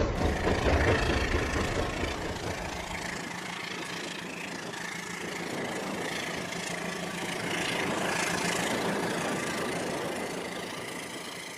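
Rail King toy train running, a steady mechanical rumble with a hiss. The deep low end drops away about three seconds in, leaving mostly the higher hiss.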